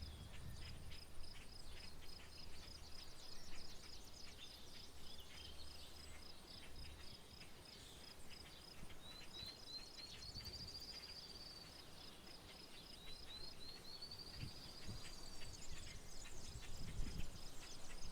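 Outdoor rural ambience: a steady, rapid, high-pitched chirping runs throughout, and twice a bird sings a phrase of a few short notes that runs into a trill. Low rumbles come at the start and again near the end.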